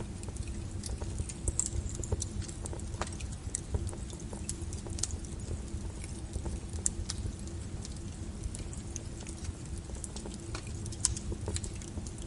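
Wood fire burning in a fireplace, crackling and popping at irregular moments over a low steady rumble, with one sharper pop near the end.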